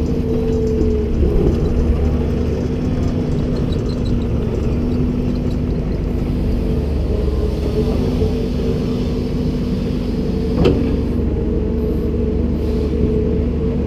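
Komatsu PC290-10 excavator's diesel engine running steadily with a constant hum, and one sharp knock about ten and a half seconds in.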